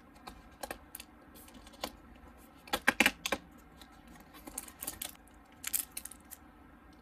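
Hands handling a cardboard box: a small cardboard door is opened and little cards are taken out. The sound is a scatter of light clicks and taps, loudest in a short cluster about three seconds in.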